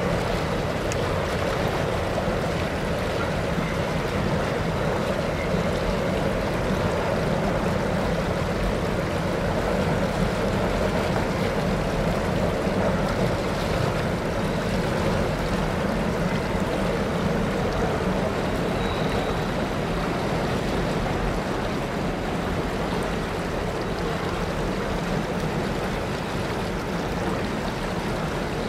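A long freight train of autorack cars rolling steadily across a steel trestle bridge, a continuous even rumble, mixed with the rush of the creek flowing below.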